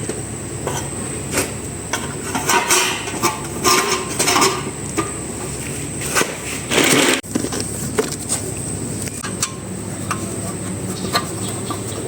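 Metal tools and parts clinking and clattering in irregular knocks, with one louder half-second rattle a bit past the middle, over a steady low hum.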